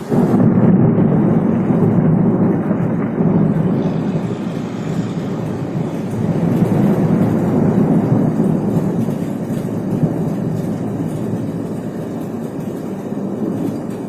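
Thunder: a loud clap that starts suddenly, then a long, low rolling rumble that slowly dies away.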